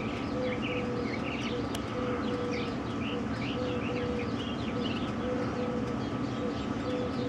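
Birds calling: many quick high chirps and trills, with a short low note repeated over and over, over a steady low hum.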